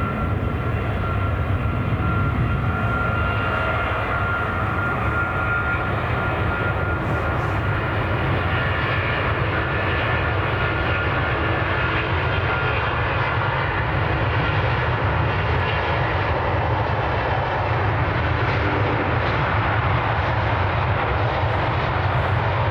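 Jet airliner engines running steadily just after touchdown as the aircraft rolls out along the runway, with a thin engine whine that fades out about a third of the way in. Wind buffets the microphone throughout.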